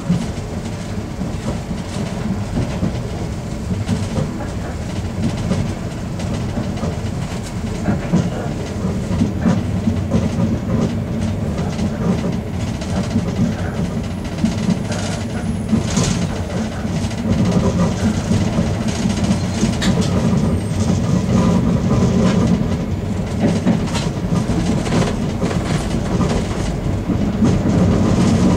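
Running noise inside a Ganz-Mavag electric multiple unit travelling at speed: a steady low rumble of wheels on rail, with scattered clicks over the track and a sharper one about halfway through.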